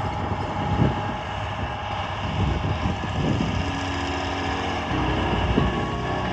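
John Deere 4955 tractor's diesel engine running steadily. Held music notes fade in over it about halfway through.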